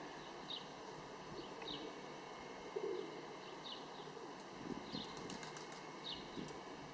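Birds: short high chirps repeating about once a second, with a few soft lower calls, faint over a steady outdoor background.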